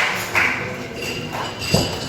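Audience applause dying away to a few scattered claps, with a short burst of clapping early on fading out and a single low thump near the end.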